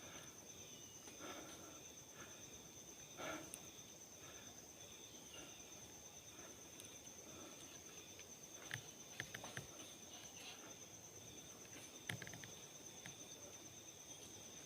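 Faint, steady high-pitched insect trill, like a cricket's, with light scattered clicks and rustles around it.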